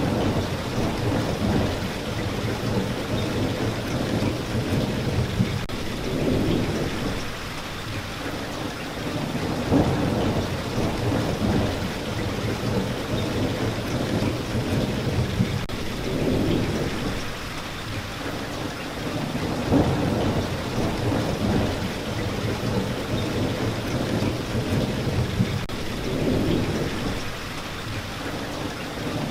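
Steady rain falling, with low thunder-like rumbles that swell and fade every three to four seconds.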